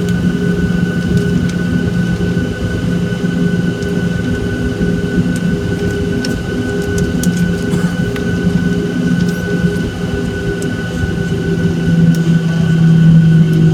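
Boeing 737-800 cabin noise with the CFM56 turbofan engines running: a steady low rumble with a constant high whine over it, growing louder about twelve seconds in.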